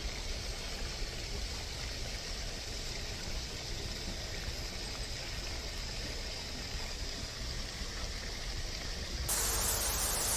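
Steady hissing noise with no distinct events, a little louder in about the last second.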